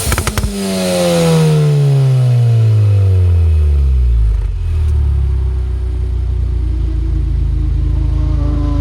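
Car exhaust on a pops-and-crackles tune: a free rev peaks and a quick string of crackles and pops fires on the overrun, then the revs fall away over about four seconds and settle into a steady idle.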